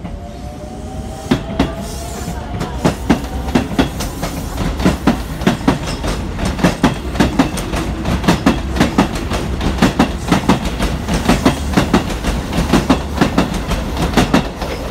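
Electric commuter train running close past a station platform, its wheels clacking over the rail joints in a quick, fairly regular rhythm over a steady rumble. A rising whine sounds in the first two seconds.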